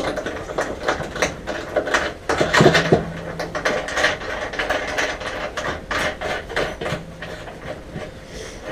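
Irregular metallic clicks and knocks of hand tools working a nut onto a bonnet catch's threaded post. A short low hum comes twice, a few seconds apart.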